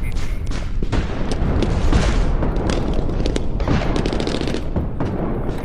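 Airsoft guns firing in rapid bursts of closely spaced shots over a steady low rumble.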